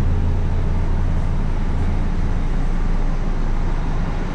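Steady low vehicle rumble with traffic-like noise. The deepest hum eases off a little past halfway.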